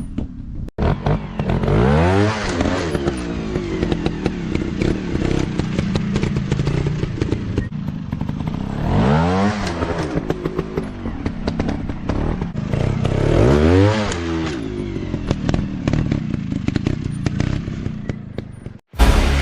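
Dirt bike engine running off-road and revving hard three times, its pitch climbing steeply each time, with clattering and knocks throughout.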